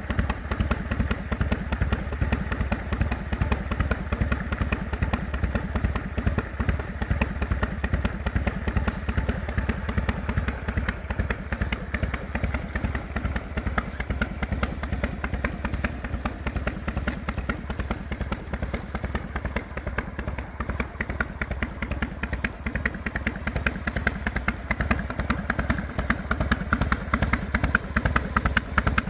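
1999 Harley-Davidson FXSTS Springer Softail's Evolution V-twin idling through drag pipes, a steady, lumpy 'potato-potato' three-beat of exhaust pulses. The idle is stable on an oil dosed with Maruyama molybdenum additive, which the owner says has cut engine noise.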